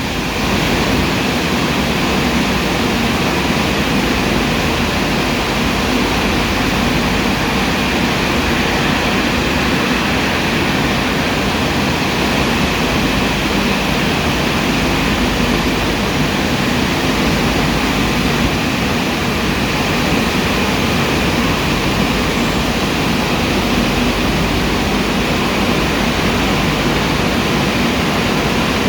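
A 1994 Car Beautician BMC Royal Waxer rollover car wash running, a steady rushing noise with a faint hum underneath.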